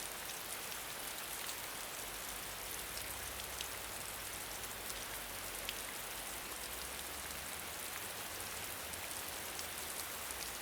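Steady hiss of falling water, with scattered tiny ticks throughout.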